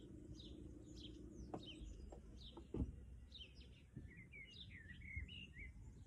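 Faint songbirds chirping and whistling in quick short notes over a low, steady background noise.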